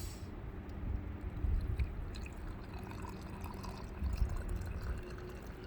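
Freshly boiled water being poured into a cup to make cocoa, with a low rumble underneath.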